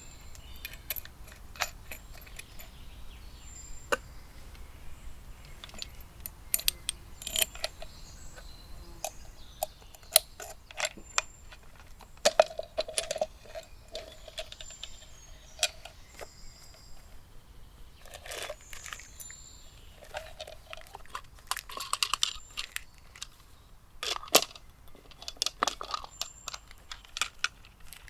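Camping gear handled up close: irregular small metallic clinks and taps, with a short ringing note partway through and brief rustling.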